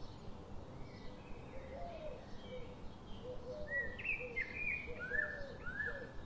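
Birds chirping over a steady background hiss. A run of short chirps that rise and fall is joined by lower, quieter repeated calls, and the chirping grows louder about four seconds in.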